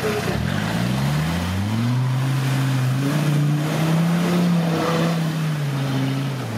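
An off-road 4x4's engine revs up under load, climbing in pitch over about a second and a half. It holds high revs for several seconds, then eases off near the end.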